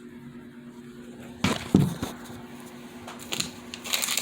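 Hands handling a toy set's packaging and pieces: two sharp knocks about a second and a half in, then rustling and crinkling near the end, over a faint steady hum.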